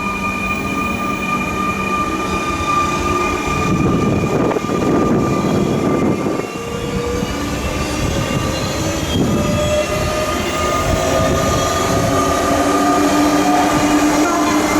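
Electric train moving through the station, its motors whining with several tones that rise slowly in pitch from about halfway through, as when an electric multiple unit pulls away, over a rumble of wheels on rail.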